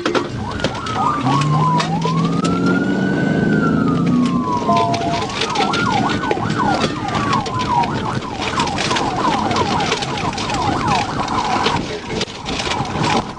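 Police car siren heard from the pursuing patrol car: slow rising-and-falling wails that switch about seven seconds in to a fast yelp, with engine and road noise underneath.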